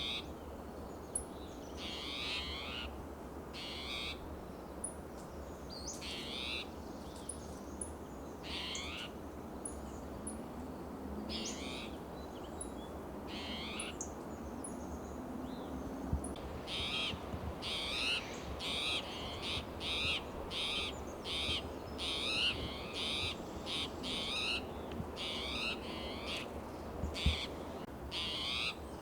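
Spotted towhee giving its harsh, rising, cat-like alarm call over and over, about every two seconds at first and then about once a second from a little past halfway. Faint high chips from another bird sound between the calls in the first half.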